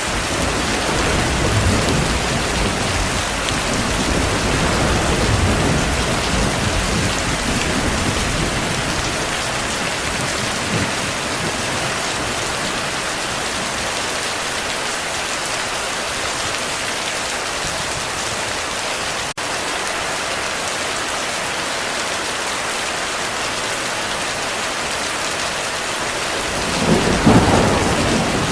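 Steady heavy rain with distant thunder rumbling through the first several seconds, and a louder thunderclap rumbling near the end.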